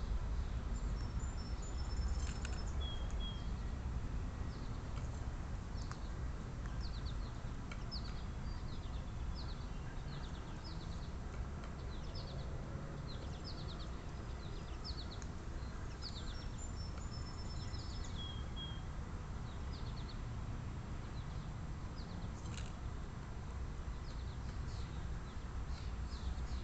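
Small birds chirping, with short high-pitched notes in quick runs again and again, over a steady low background rumble.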